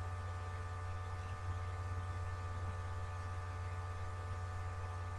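Steady electrical mains hum with a buzzy stack of higher tones, unchanging; no other sound stands out.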